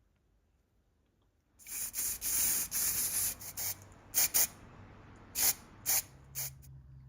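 Pressurised spray hissing from a nozzle: one long burst, then five short bursts. A low steady hum starts near the end.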